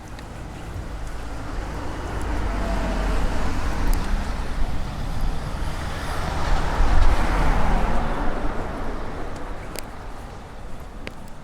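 A road vehicle drives past: engine rumble and tyre noise build up over several seconds, peak about seven seconds in, then fade away.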